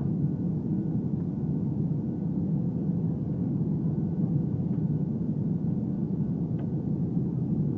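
Steady low rumble of an Airbus A320's engines and airflow heard from inside the passenger cabin, with a faint steady hum over it.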